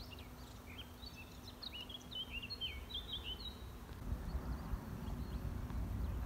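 A small songbird sings a quick twittering phrase of short chirps over the first few seconds. From about four seconds in, a low rumbling noise grows louder.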